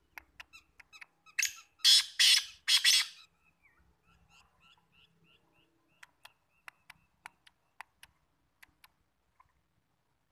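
Caged bird giving four loud, harsh squawks close together about a second and a half in, then a few soft short chirps. Later comes a string of sharp separate ticks.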